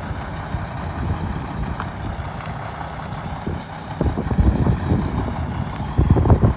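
Mack Vision truck's diesel engine running with a low rumble, mixed with wind buffeting the microphone, which grows louder and gustier about four seconds in.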